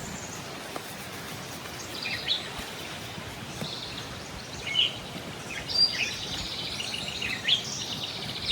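Small birds chirping and calling over a steady outdoor background hiss, with a series of short high chirps and trills starting about two seconds in.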